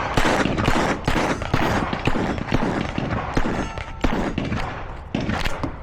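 A rapid string of .22 rimfire pistol shots, about three a second, with steel plate targets ringing faintly after some of the hits.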